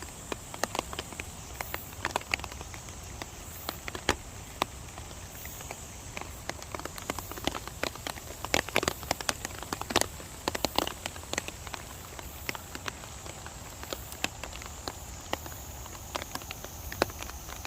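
Rain falling in a mountain valley: a steady hiss with many irregular, sharp drop impacts on nearby surfaces, thickest about halfway through.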